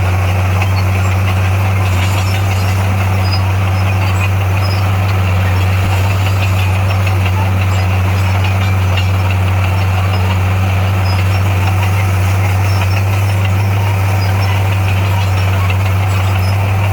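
Heavy construction machine's diesel engine running at a steady speed, a deep, even drone that holds one pitch.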